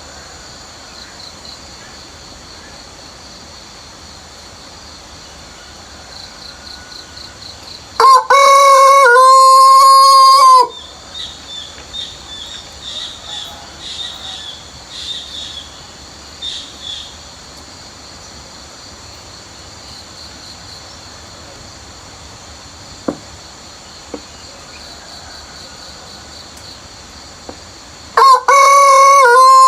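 Rooster crowing twice: one long crow about eight seconds in, lasting some two and a half seconds, and another beginning near the end. Between the crows, small birds chirp briefly over a steady background of insects.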